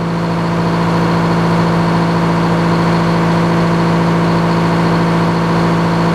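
Sawmill engine running steadily at a constant pitch, growing slightly louder over the first second and then holding level.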